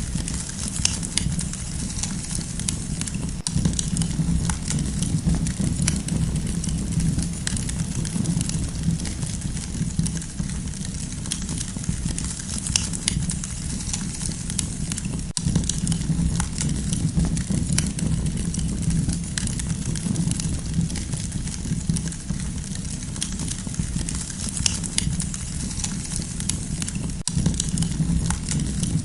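Campfire burning, with frequent sharp crackles and pops scattered irregularly over a steady low noise of the flames.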